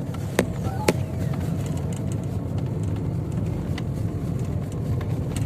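Car on the move: a steady low engine and road rumble, with two sharp knocks about half a second apart near the start.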